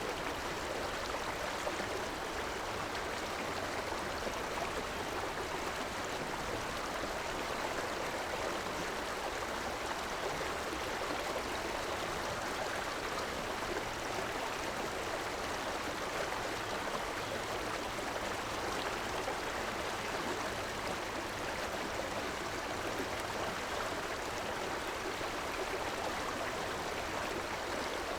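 River water flowing steadily: an even, unbroken wash of water noise that never rises or falls.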